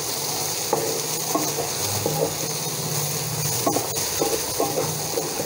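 Chopped onions and tomatoes sautéing in hot oil in a non-stick pan, sizzling steadily, while a wooden spatula stirs them and scrapes the pan bottom in short, irregular strokes.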